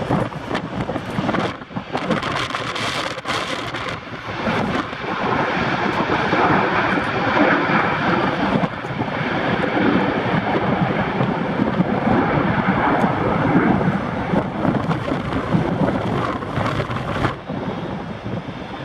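Jet airliner engine noise swelling as the aircraft passes, mixed with heavy wind buffeting the microphone in gusts.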